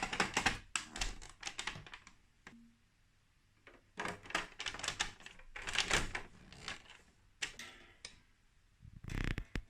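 Plastic toy building pieces clicking and rattling as they are handled and snapped together, in several bursts of quick clicks separated by short pauses.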